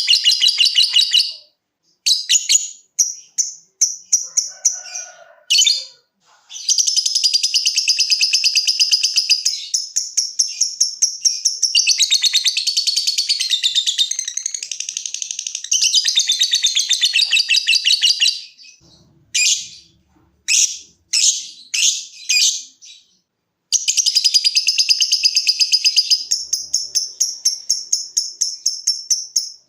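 A lovebird singing its long rapid chattering trill (ngekek): several runs of a few seconds each of fast, evenly repeated high notes, broken by short pauses. Past the middle it gives a handful of separate short sharp calls before launching into another long trill.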